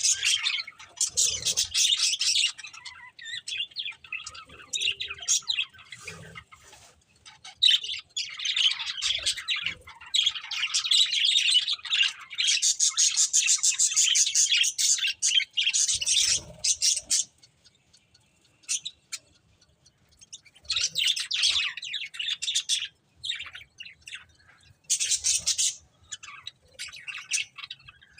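Pet budgerigars chirping and chattering in bursts of rapid, high twittering, with a few short pauses, the longest about two thirds of the way through.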